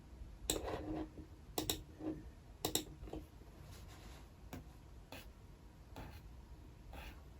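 Scattered clicks and taps from desk work at a computer, about eight in all, irregularly spaced. The first three are louder and fuller; the rest are faint single clicks about a second apart.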